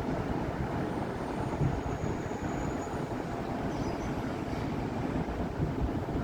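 Steady rumble of city avenue traffic: cars and buses passing continuously. A faint high-pitched tone rises above it briefly in the first half.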